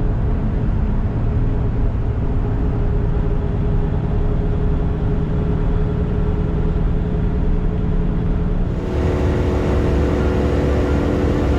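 Car cruising on the road: steady engine hum and road noise, with an abrupt change to a brighter, fuller version of the same drive sound about nine seconds in.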